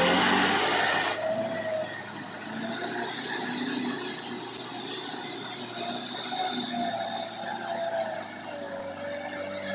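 Kubota tractor's diesel engine running under load, its pitch wavering up and down slightly. The sound changes abruptly about a second in.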